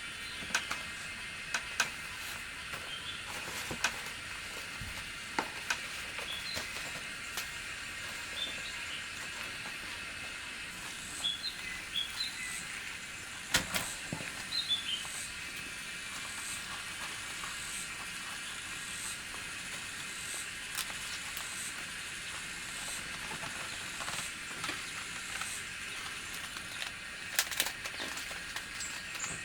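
Outdoor ambience: a steady high hiss with small bird-like chirps repeating through it, and scattered sharp clicks and knocks.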